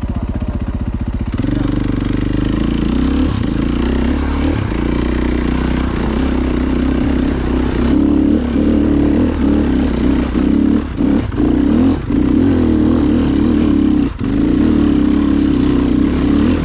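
Off-road motorcycle engine pulling under throttle. Its note steps up about a second in and holds steady, then drops briefly several times near the end as the throttle is rolled off and on.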